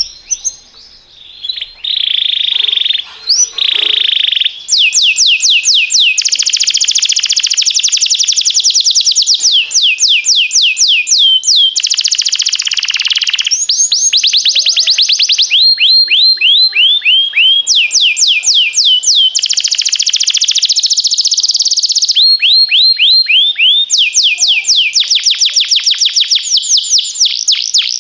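Domestic canary singing a long song of trained rolls: runs of rapid, repeated falling whistled notes, changing to a new run every few seconds, with a couple of denser buzzy rolls.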